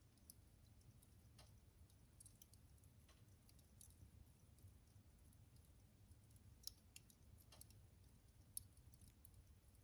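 Wood fire in a fireplace burning down to embers, giving faint, sparse crackles and pops, with two sharper pops in the second half.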